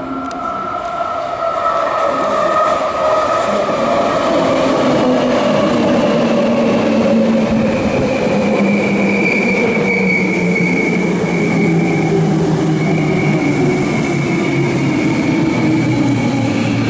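Hankyu electric train coming into the station, its traction motors whining in several tones that slowly fall in pitch as it slows, over wheel and running noise on the rails. A high squeal joins in from about halfway through.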